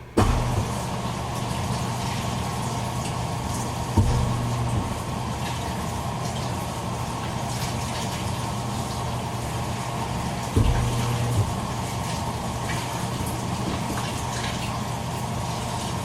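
Toshiba AW-42SEE4 top-loading washing machine filling its tub with water, a steady rushing pour that starts suddenly. Every four to six seconds a short low hum starts with a clunk and lasts about a second.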